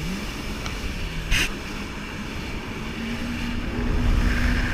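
Jet ski engine running over a low rumble, its pitch rising briefly at the start and then holding fairly steady, stepping up slightly about three seconds in. One sharp knock comes about a second and a half in.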